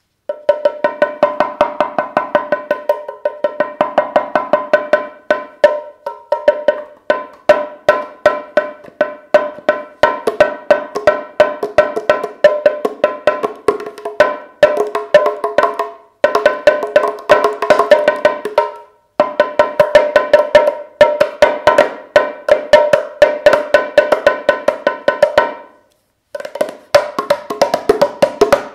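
Moroccan tbilat, a clay hand drum with a goat-skin head, struck quickly with a mallet. Fast runs of sharp, ringing strokes with a clear pitch, broken by a few brief pauses.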